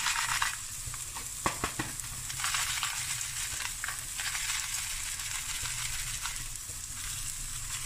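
Diced vegetables (carrot, onion, jalapeño) sizzling steadily as they fry in a stainless steel pot, with a couple of sharp clicks about a second and a half in.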